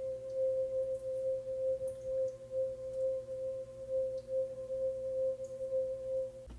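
A single sustained ringing tone from a resonant metal sound-healing instrument, wavering slowly in loudness, with fainter overtones. It stops just before the end.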